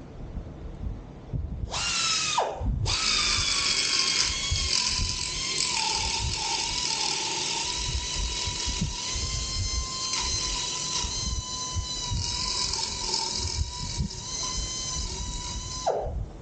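Small electric power tool's motor whining at high speed: it starts about two seconds in, cuts out for a moment, then runs steadily with a few brief dips in pitch, and winds down with a falling pitch near the end.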